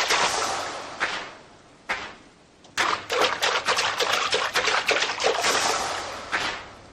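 Splashing, rushing water with fine crackle through it, in two stretches that each fade away, with a near-quiet pause of about a second between them.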